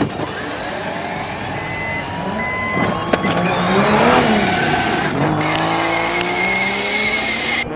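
Car engines running fast and passing, their pitch gliding up and down. The sound starts and stops abruptly.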